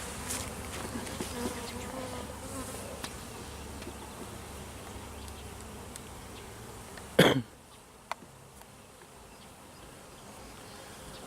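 Honey bees buzzing in a steady hum around an open hive in the middle of an inspection. About seven seconds in comes one short loud noise, after which the buzzing is fainter.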